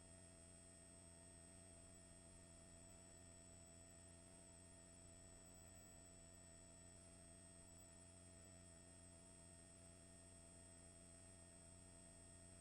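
Near silence: a faint, steady electrical hum with a thin, high whine, unchanging throughout.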